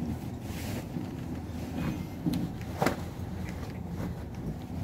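Steady low hum inside a sleeper train carriage, with one sharp knock a little under three seconds in.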